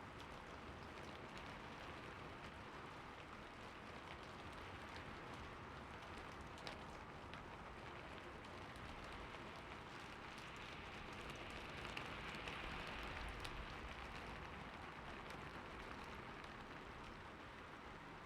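Steady rain falling, with scattered single drops ticking out of the hiss. It swells slightly louder a little past the middle.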